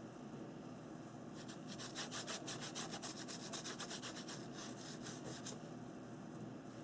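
Paintbrush scrubbing paint onto a paper page in quick back-and-forth strokes, faint and scratchy, starting about a second and a half in and stopping about a second before the end.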